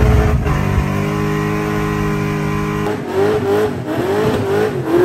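Car engine running at a steady speed, then revved up and down in several quick blips from about three seconds in.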